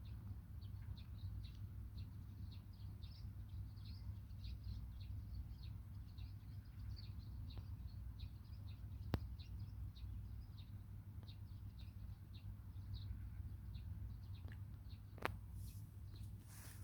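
Frogs calling: many short, high chirps, several a second, over a steady low rumble. There are two sharp clicks, about nine and fifteen seconds in.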